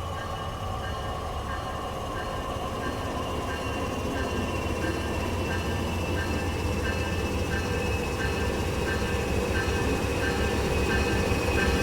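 MBTA commuter train with an MPI HSP46 diesel locomotive approaching: a low diesel rumble under a bell ringing about one and a half strokes a second, with faint high whines sinking slowly in pitch. It grows steadily louder as the train draws in.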